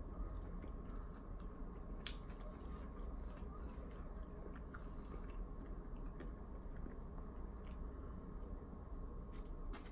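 A man chewing food close to the microphone, with a scattered series of short sharp clicks and crunches from his mouth, over a low steady hum.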